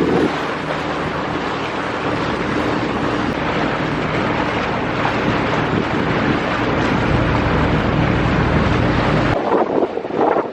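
Motorboat under way: the engine runs steadily under heavy wind noise on the microphone and rushing water. The sound drops off abruptly near the end.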